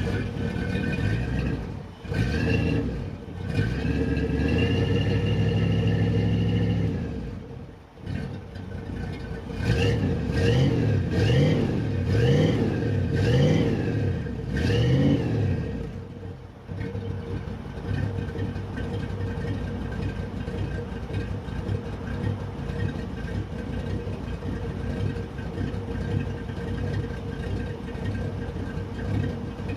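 1969 Ford F100's 360 cubic inch FE V8, freshly started, being revved: a held rev of a few seconds, then about five quick blips of the throttle. It then settles into a steady idle.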